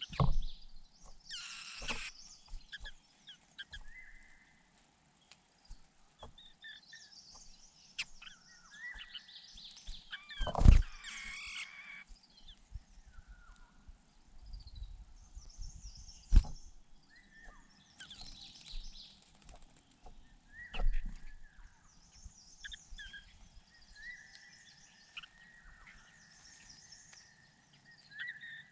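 Birds calling with scattered high chirps and some longer held whistled notes, broken by a few loud thumps, the loudest about eleven seconds in and another near sixteen seconds.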